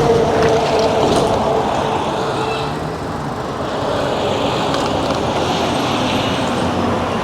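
Road traffic noise: cars passing along a busy avenue. It is loudest in the first second or so and eases a little around three seconds in.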